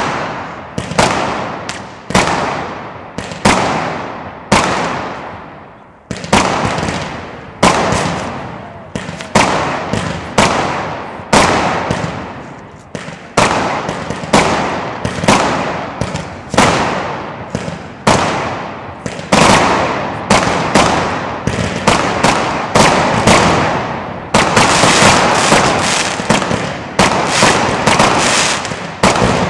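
WECO Wildstorm 64-shot 13 mm fireworks cake firing shot after shot: sharp bangs about one a second, each trailing off over about a second. In the last few seconds the shots come faster and run together.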